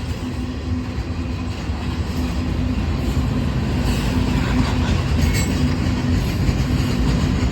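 Freight train cars rolling past, a steady loud rumble on the rails, with a brief high squeal about five seconds in.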